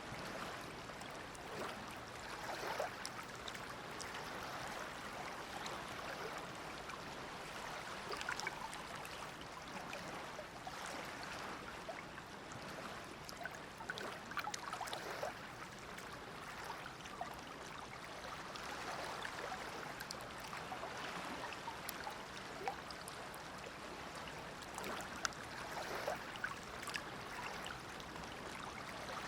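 Shallow Dead Sea water lapping and splashing at the shore. A steady wash swells and eases every few seconds, with scattered small splashes and drips.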